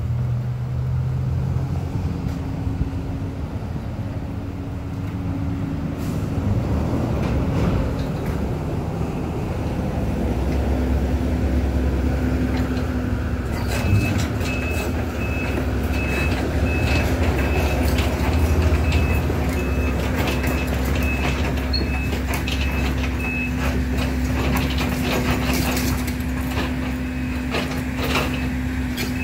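Link Belt tracked excavator's diesel engine working hard as it climbs a debris pile, with knocks and clanks from the tracks and debris. About halfway through a steady repeated beeping starts, the machine's travel alarm.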